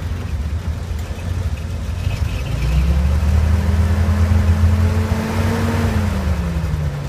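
Dodge WC51 weapons carrier's flathead straight-six engine running again after an engine breakdown. It is revved up about two seconds in, held at higher revs, then eases back toward idle near the end.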